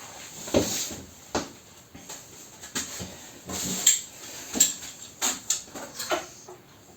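Wire chimney brush on a handle scraping and knocking against the steel flue opening of a pellet stove, in a string of irregular scrapes and knocks. A 60 mm brush is being forced at a 35 mm channel that is too small for it.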